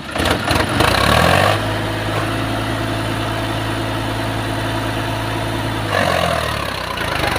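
Sonalika DI-35 RX tractor's diesel engine running: louder and rougher for the first second and a half, settling to a steady idle, then picking up again about six seconds in.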